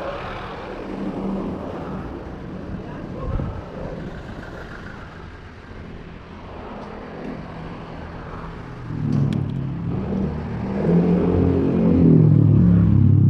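Road traffic heard from a moving bicycle: motor-vehicle engines running close by, with a louder engine drawing near in the last few seconds.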